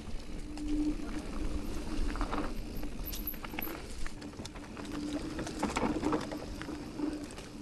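Electric mountain bike with a DJI drive motor riding a rough dirt trail, with a steady low motor hum under loose rattling from the bike and tyres. A couple of louder knocks and rattles come a few seconds apart as it rolls over a tree trunk.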